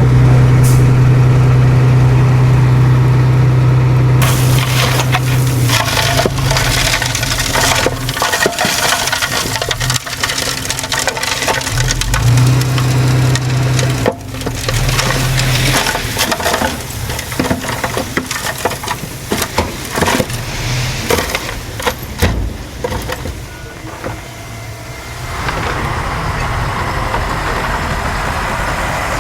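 A heavy diesel earthmoving machine's engine running, then a long stretch of dense crunching and cracking from about four seconds in, as material is crushed and pushed, easing off near the end.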